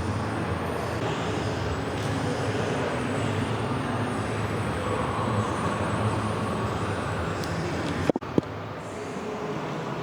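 Steady background rumble and hiss with no clear single source, broken about eight seconds in by two sharp clicks and a brief dropout, after which it is a little quieter.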